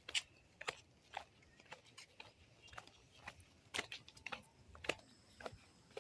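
Footsteps of a person walking along a road, about two steps a second, each a short crisp scuff.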